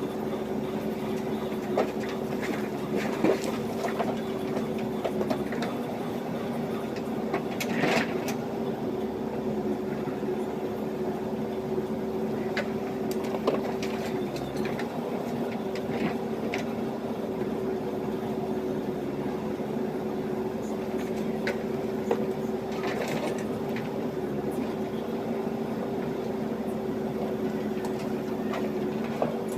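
JCB backhoe loader's diesel engine running steadily with a constant hum, with scattered sharp knocks and clatters from the work, the loudest about 3 and 13 seconds in.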